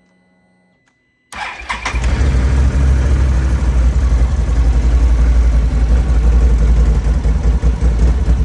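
ATV engine cranking and catching about a second in, then running steadily and loudly. It is the engine being coaxed back to life after diesel got into its gasoline tank and the tank was refilled with fresh gas.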